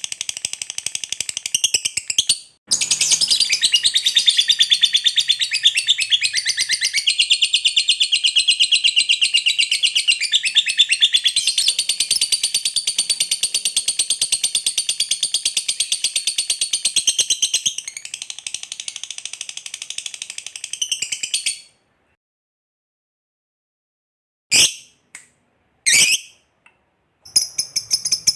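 Lovebird ngekek: a long, very fast, high-pitched chattering trill that runs unbroken for about twenty seconds, with one short break near the start. It stops, and after a pause come two short chirps before the trill starts again near the end.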